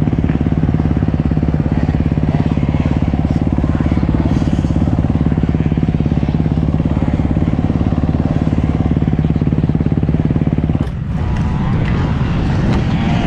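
Dirt bike engine running steadily under way, its fast even firing note loud and close. Near the end the engine note breaks off abruptly and gives way to rougher, uneven noise.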